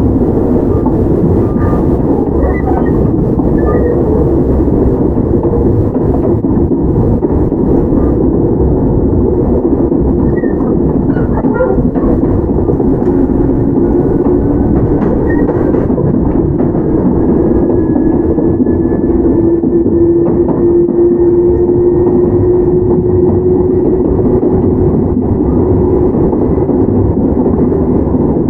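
Toyama Chiho Railway 17480 series (ex-Tokyu 8090 series) field-chopper electric train running, with steady wheel and running noise. From about halfway through, a faint traction-motor hum rises slowly in pitch as the train gathers speed.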